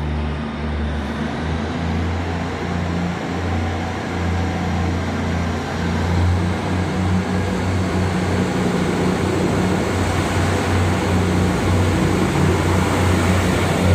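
Class 158 diesel multiple unit's underfloor diesel engines running under power as the train pulls out of the platform, a steady low hum that grows slightly louder.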